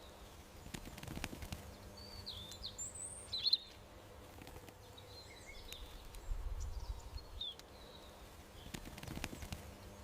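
Small garden birds chirping: scattered short calls and brief sliding whistles, the loudest about three and a half seconds in, over a low outdoor rumble that swells a little past the middle.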